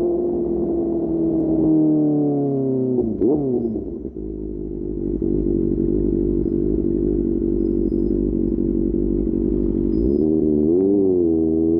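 QJ Motor SRK600's inline-four engine through an SC-Project exhaust: running steadily, then dropping in pitch as the bike slows about three seconds in, and idling steadily. Near the end it gives a short rev up and down, and the revs start climbing again.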